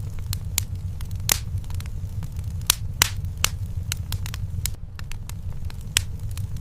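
Wood fire crackling in a fireplace: irregular sharp pops and snaps over a steady low rumble of the flames. A few louder pops come about one, three and six seconds in.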